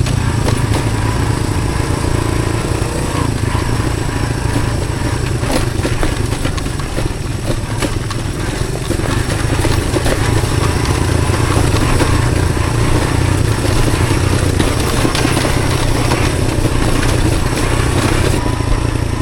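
Honda CT110 postie bike's small single-cylinder four-stroke engine running steadily, with scattered knocks and rattles.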